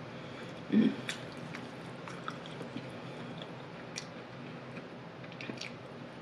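A person chewing food close to the microphone, with a few sharp wet mouth clicks and one brief louder low sound about a second in.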